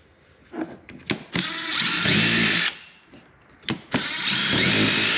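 Power drill run in two bursts of about a second and a half each. Its motor whine rises as it spins up each time, with short clicks and knocks of handling in between.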